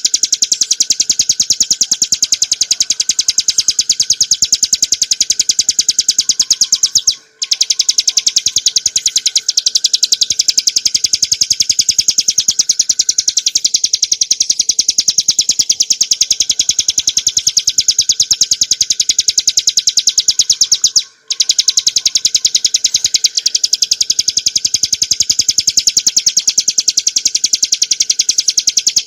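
Bar-winged prinia (ciblek gunung) singing a fast, unbroken trill of rapid high notes in the continuous rolling style keepers call ngebren. It cuts off briefly twice.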